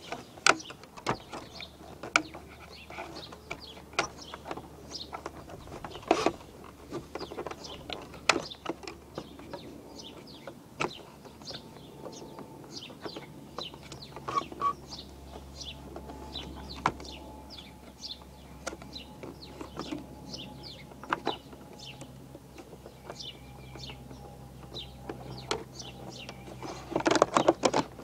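Birds chirping in many short, repeated calls, with scattered sharp clicks and knocks.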